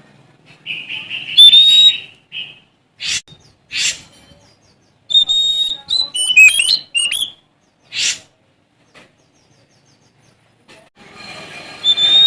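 Oriental magpie-robin (Sumatran kacer) singing in phrases separated by pauses: a buzzy trill, several short harsh notes, and a quick run of varied whistled notes that slide up and down. Near the end a steady background hiss comes in under a high whistled note.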